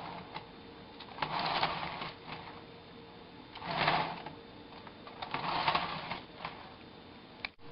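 Rotor of a homemade permanent-magnet motor model being spun by hand, giving a rapid clattering whir in three short bursts, with one sharp click near the end.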